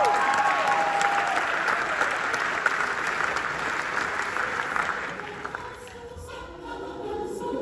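Audience clapping after a song, with the last sung notes just fading at the start; the applause dies away about five seconds in, and quiet music begins near the end.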